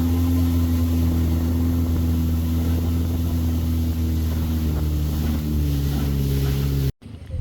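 Motorboat engine running steadily at a constant speed. The sound cuts off abruptly near the end and gives way to a much quieter background.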